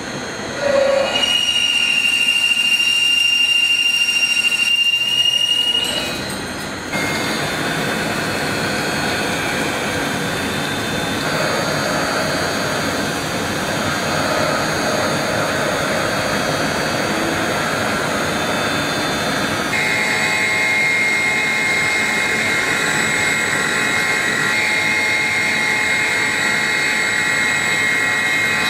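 CNC mill-turn machine cutting metal. A steady high-pitched whine for the first few seconds stops about six seconds in. A denser, noisier cutting sound follows, and a second steady high tone joins about twenty seconds in.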